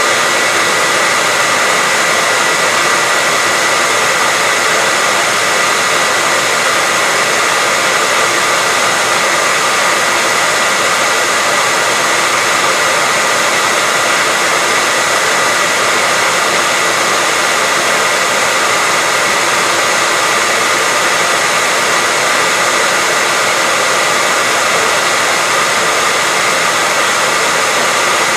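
Hair dryer running steadily: a constant rush of blown air with a steady whine above it, unchanging throughout.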